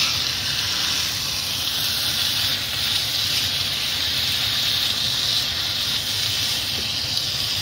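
Diced pork sizzling in a frying pan of tomato and onion curry base: a steady hiss that does not let up.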